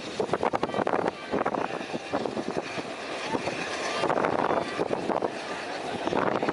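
Passenger train running at speed, heard from an open window or door of its own coach: a steady rush of wheel and rail noise full of rapid clattering.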